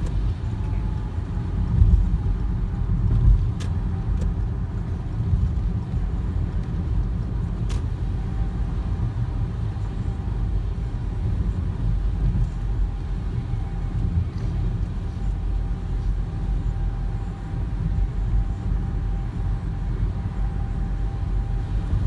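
Steady low rumble of a car driving, heard from inside the cabin, with two brief faint clicks a few seconds apart.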